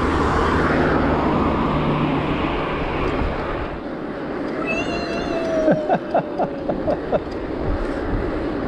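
Strong wind buffeting an action-camera microphone, with tyre and road noise from gravel bikes riding fast with a tailwind. About five seconds in, a brief falling squeal is heard, followed by a quick run of sharp clicks.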